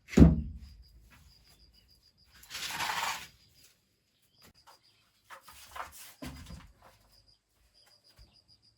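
A heavy thump, then a brief rasping scrape about two and a half seconds in and a cluster of knocks around six seconds. Under them runs a faint high chirp repeating several times a second.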